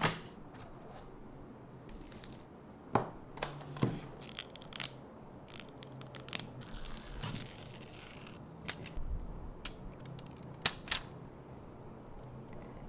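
Scattered sharp clicks and knocks, a dozen or so at uneven spacing, the loudest near the end, over a faint low steady hum.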